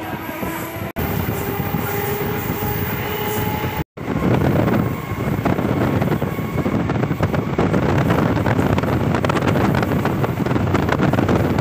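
Suburban electric multiple-unit train running at speed, heard from inside the carriage at an open door or window: a dense, loud rattle of wheels and car body on the track. The sound drops out briefly twice in the first four seconds and is louder after that.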